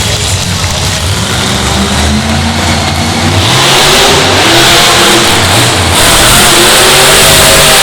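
Monster truck engine revving hard, with rising pitch, getting louder about three and a half seconds in and again about six seconds in.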